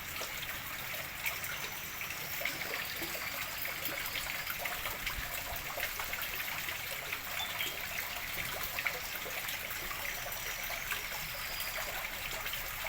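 Water running into a fish pond as it is refilled after cleaning: a steady trickling splash.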